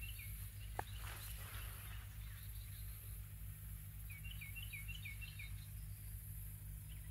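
A songbird singing a quick run of six or seven repeated slurred notes, twice, a few seconds apart, over a steady low rumble, with one sharp click about a second in.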